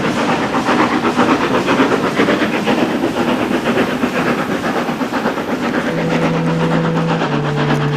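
Steam locomotive 53808, a 7F 2-8-0, working with a quick, even beat of exhaust and steam hiss. Near the end, steady held notes come in and change pitch once.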